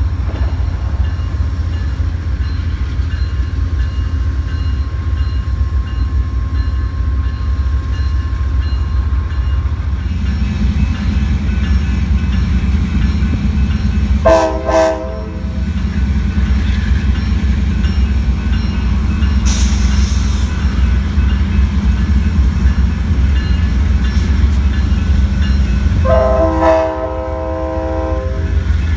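Amtrak diesel locomotive running with a steady low rumble as the train backs up, its engine note rising about ten seconds in. The horn sounds two short blasts, about halfway through and again near the end, with a brief hiss of air between them.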